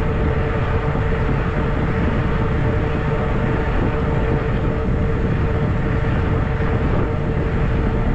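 Zota Zephyr 20-inch fat tire e-bike riding along a trail: a steady rumble of wind and tyres on the bike-mounted camera's microphone, with a steady mid-pitched whine throughout.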